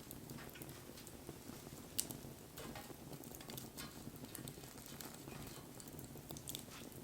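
Wood campfire burning, crackling with scattered small snaps and one sharp pop about two seconds in.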